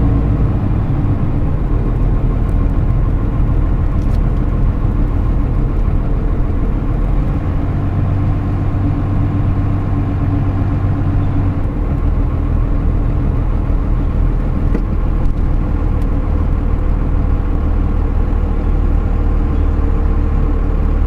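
Pickup truck under a camper, driving at a steady pace: a continuous engine hum and rumble with road noise.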